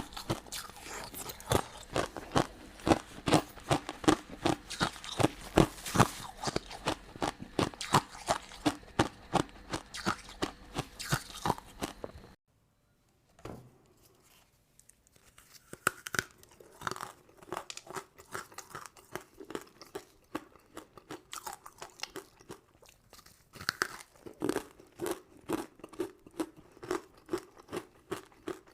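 Close-miked ASMR eating: crisp crunching and chewing of crystal candy and sugar-coated sweets. The crunching cuts off abruptly about twelve seconds in, with a second of silence, then softer, slower chewing resumes.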